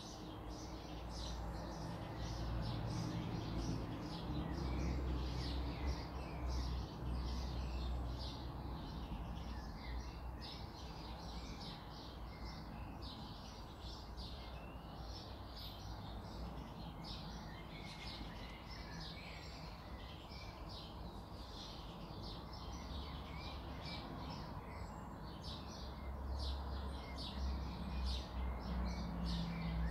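Birds chirping steadily, many short chirps a second, over a low rumble that swells a couple of seconds in and again near the end.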